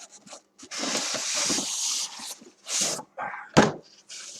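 Styrofoam packing and cardboard rubbing and scraping as a boxed toy train piece is worked free. There is one long scrape in the first half, shorter scrapes after it, and a sharp knock about three and a half seconds in.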